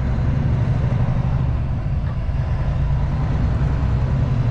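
Kenworth T660 semi truck's diesel engine and road noise heard from inside the cab while driving, a steady low drone.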